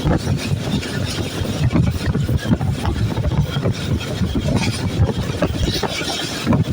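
Passenger train running on the track, heard from on board: a steady low rumble of wheels on the rails with irregular clatter.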